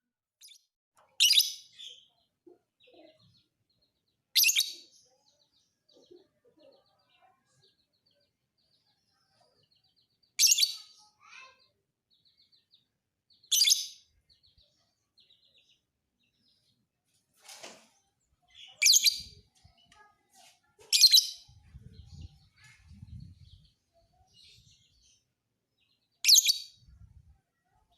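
Lovebird giving about eight short, shrill, high-pitched calls, spaced irregularly a few seconds apart.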